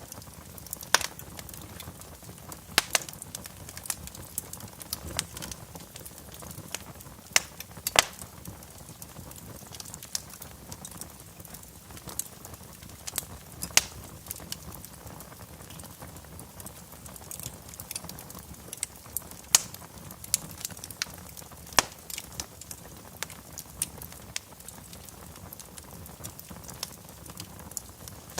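Wood fire crackling in a fireplace: irregular sharp pops and snaps, a few of them much louder, over a steady low hiss of the flames.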